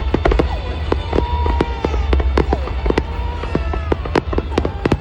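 Fireworks display: a rapid, irregular string of sharp bangs and crackles over a steady low rumble, with several whistling tones gliding down in pitch.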